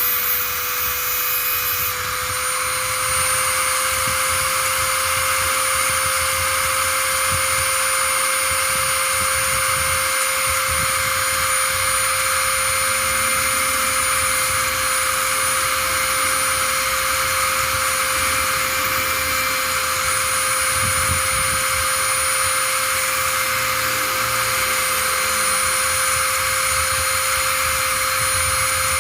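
A small electric motor running steadily with a constant whine, its pitch stepping up slightly about two seconds in.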